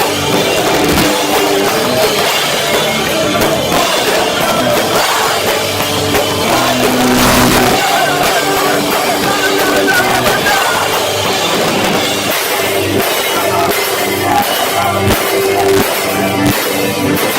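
A heavy rock band playing live at full volume, with distorted guitars, a drum kit and some vocals, recorded distorted and muddy through a cheap phone's microphone.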